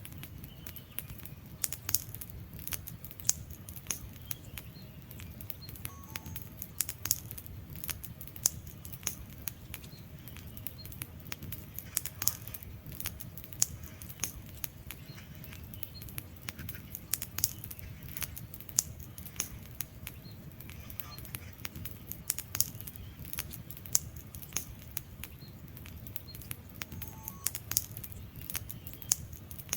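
Wood fire burning in a fireplace: logs crackling with irregular sharp pops over a low, steady rumble of the flames.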